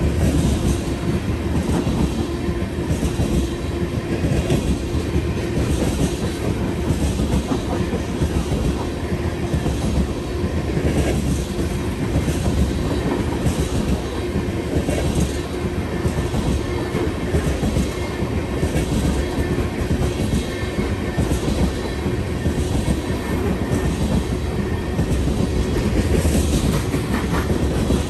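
Freight train of black tank cars rolling steadily past: a continuous rumble of steel wheels on rail, with repeated clicks as the wheel sets cross rail joints and a steady hum beneath.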